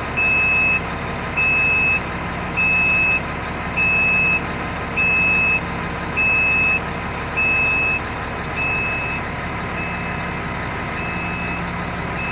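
Electronic warning beeper sounding a steady high beep about every 1.2 s, over a continuous low engine drone. The beeps falter and pause about three quarters of the way through.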